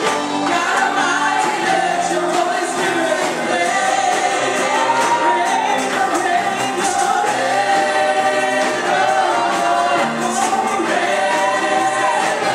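Gospel worship music: a choir of voices singing a melody over sustained instrumental accompaniment.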